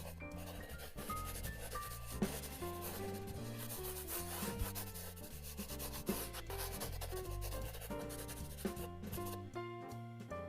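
Drawing strokes on paper, short repeated scratching and rubbing, over light background music with a simple melody and bass line.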